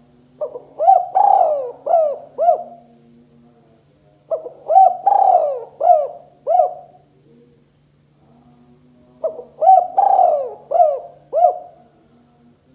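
Spotted dove (tekukur) cooing: three repeated phrases of several arching coo notes each, a few seconds apart.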